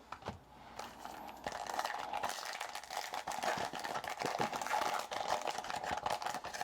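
Crinkling and rustling of a foil trading-card pack wrapper being torn open and handled, a dense run of small crackles.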